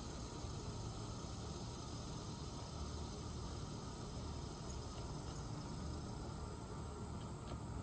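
Insects droning in one steady, unbroken high-pitched tone over a low background rumble.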